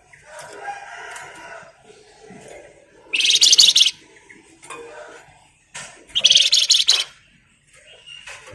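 Flamboyan songbird singing: two loud, rapid rattling trills ('ngebren'), each about a second long and about three seconds apart, with softer chirps between them.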